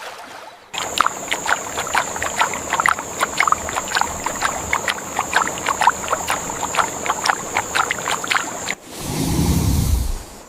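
River water splashing and lapping in many small irregular splashes, over a steady high thin whine. Near the end a louder rushing noise takes over for about a second.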